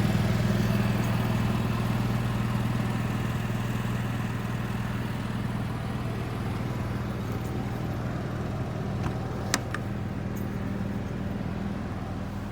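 Steady low engine-like hum that slowly grows fainter, with a sharp click about nine and a half seconds in.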